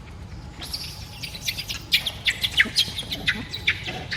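A fast run of short, high, falling chirping calls starting about half a second in, several a second and growing louder, over a low steady rumble.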